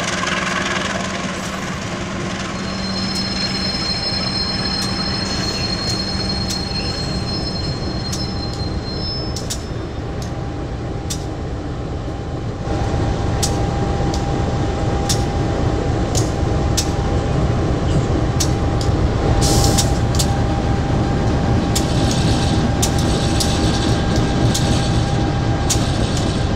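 Train running: a steady rail rumble with a thin high wheel squeal for several seconds near the start, then louder from about halfway on, with a string of sharp clicks from the wheels.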